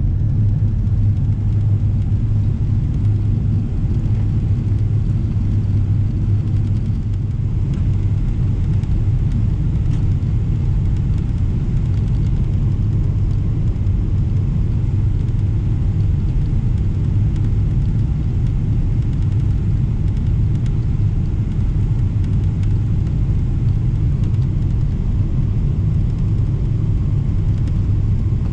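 Steady low rumble of cabin noise inside a Boeing 777-300ER on descent: engine and airflow noise with a strong low hum.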